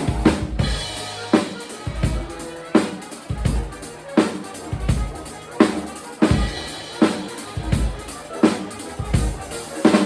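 Live band playing, with the drum kit to the fore: kick drum and snare hits keeping a steady beat about every 0.7 seconds, with other instruments sustaining notes underneath.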